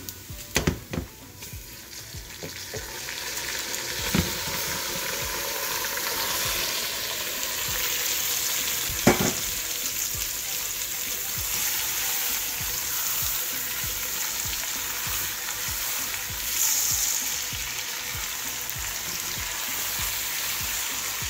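Raw chicken pieces frying in hot oil with fried onions in a metal pot: a few knocks as the pieces go in, then a steady sizzle that builds over the first few seconds, with one sharp knock about nine seconds in.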